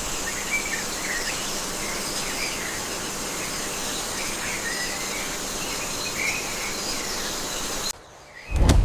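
Tropical rainforest ambience: a dense, steady hiss of insects with scattered short bird chirps over it, cutting off suddenly about eight seconds in. A loud low rumble starts just at the end.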